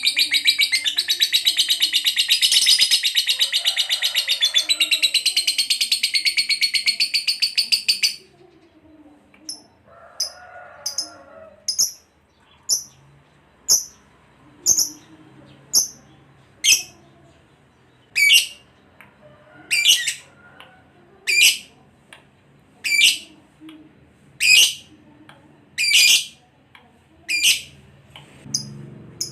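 Lovebird chattering in a long, rapid high-pitched trill that stops about eight seconds in. After a short pause it gives single sharp shrill calls, about one every second and a half.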